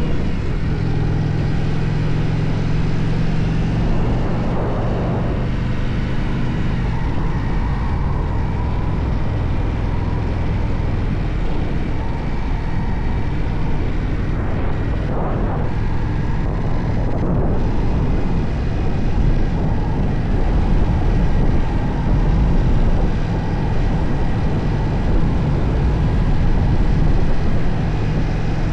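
Motorcycle engine running steadily while riding, its note shifting up and down briefly a couple of times.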